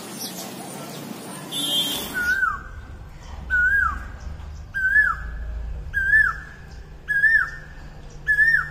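A flock of sparrows chirping, then, about two seconds in, a bird's clear whistled note repeated about once a second, each note hooking down in pitch.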